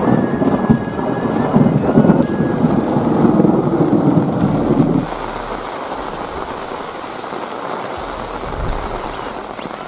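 Heavy rain pouring down with a loud, dense rushing. About halfway through it drops suddenly to a softer, steady patter.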